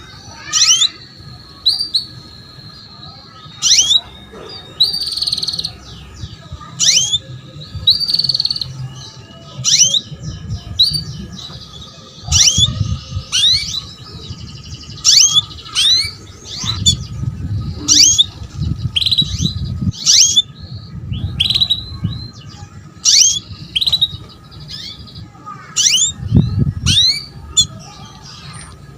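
Female canary giving short, sharp call notes, each a quick downward sweep, repeated roughly once a second: a hen's calling, used to stir male or young canaries into song. A low rumble comes and goes underneath.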